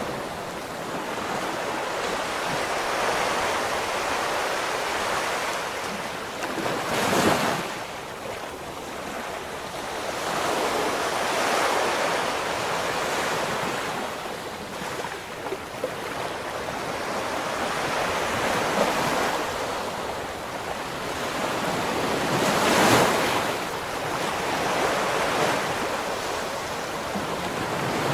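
Ocean surf: waves breaking and washing up the shore in slow, rolling surges, with two heavier breakers crashing, one about a quarter of the way in and one near the end.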